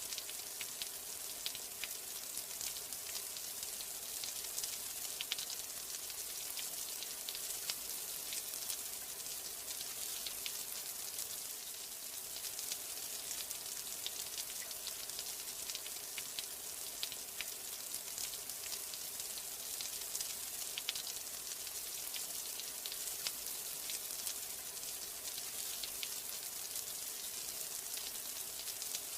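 Steady rain, a dense even hiss with many small drop ticks scattered through it.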